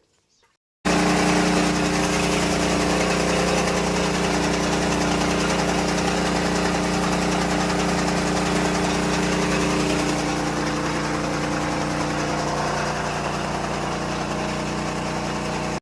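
An engine running steadily at a constant speed, starting abruptly about a second in and cutting off abruptly at the end.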